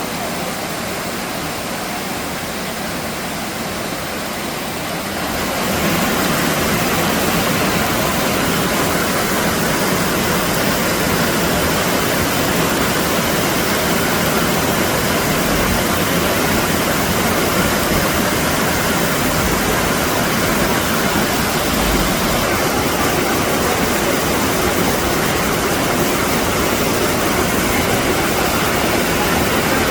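Steady rush of running water, stepping up louder about five and a half seconds in and then holding even.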